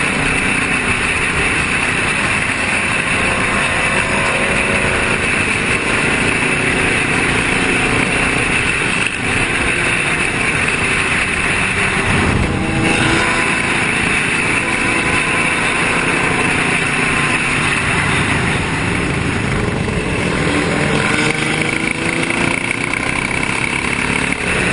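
Motorcycle engines running and revving over a steady, dense noise, with engine pitch rising and falling now and then.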